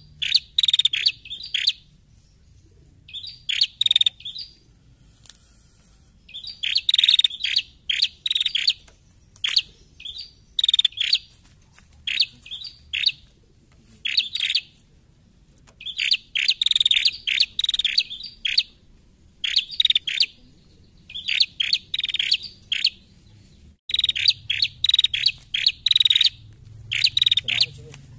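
Female prenjak calling in short runs of quick, high, chattering chirps. Each run lasts about a second and comes again every second or two, with a few longer pauses.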